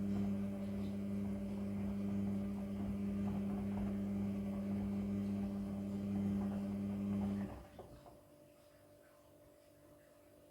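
Midea front-loading washing machine running with a steady low hum, which stops abruptly about seven and a half seconds in, leaving faint room tone.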